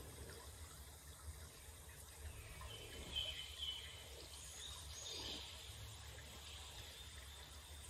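Faint outdoor ambience with a few soft, short bird chirps, two of them close together about three seconds in.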